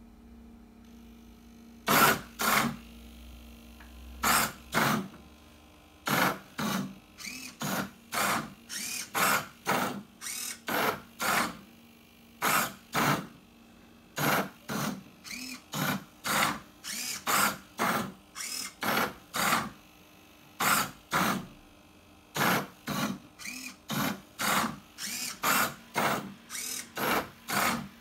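Stepper motors of a 3D-printed Rubik's cube solving robot turning the cube's faces move after move. Each turn is a short whir with a slight rise and fall in pitch, coming about one or two a second from about two seconds in, over a steady low hum.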